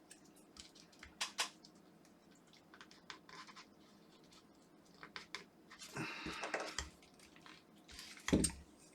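Small clicks and scraping of tools and plastic as the handle of a Philips Sonicare electric toothbrush is pried at, with a longer scrape about six seconds in and a louder knock near the end; the inner assembly is stuck in the housing.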